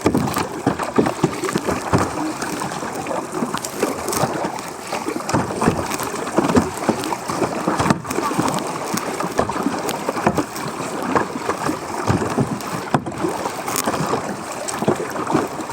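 Water sloshing and splashing around a kayak, a steady jumble of many small, irregular splashes.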